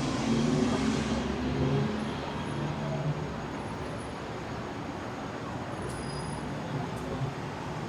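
City street traffic: a steady hum of passing cars, a little louder in the first couple of seconds.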